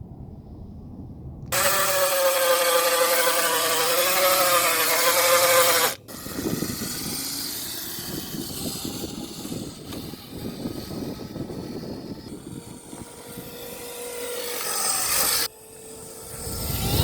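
Hyper 350 kids' dirt bike running under power: a loud, steady whine with a slightly wavering pitch that stops suddenly. This gives way to a rougher, noisier riding sound with only a faint trace of the whine.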